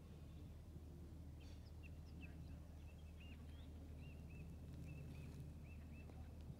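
Faint outdoor ambience: a low, steady rumble with a small bird calling in short, repeated chirps from about two seconds in until near the end.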